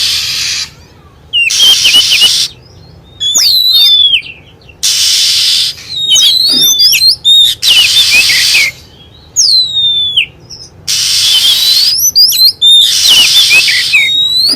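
Recorded song of an Oriental magpie-robin, played as a lure call: loud, varied whistled phrases of quickly rising and falling notes, alternating with harsh, hissy bursts about a second long.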